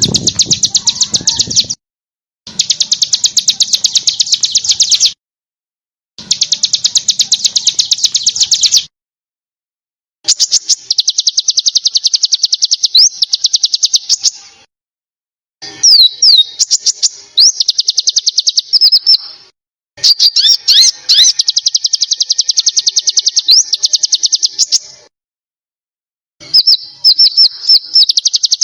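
Small songbird's rapid, dense trill of high notes, repeated in seven bursts of a few seconds each with abrupt silent gaps between them. A few sharp up-slurred whistles cut in partway through. This is an edited, looped birdsong recording played as masteran, tutor audio for competition songbirds.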